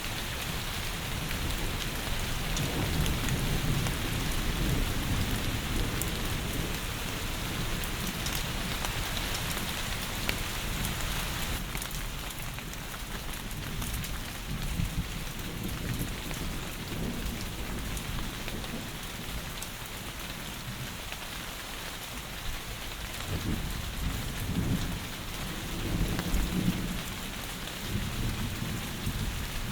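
Steady heavy rain pouring and spattering, with low rumbles swelling up near the start and again near the end.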